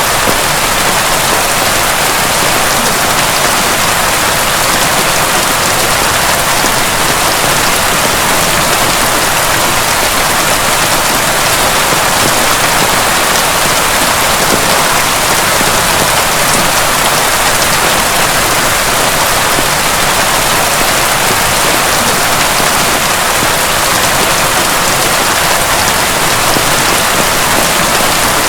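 Heavy rain falling steadily: a dense, even hiss that holds at the same level, with no thunder.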